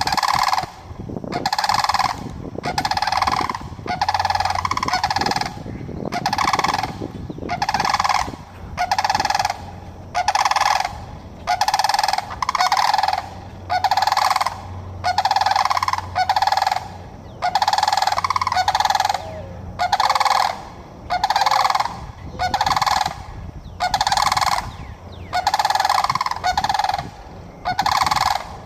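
Sandhill cranes calling: loud, rolling, trumpeting calls repeated about once a second in a steady series.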